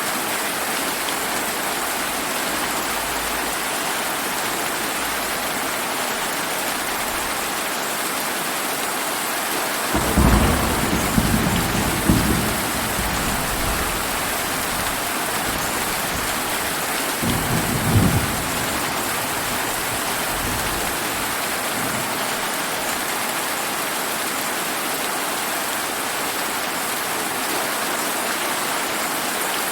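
Steady rain falling, with thunder rumbling twice: a longer roll about a third of the way in and a shorter one a little past the middle.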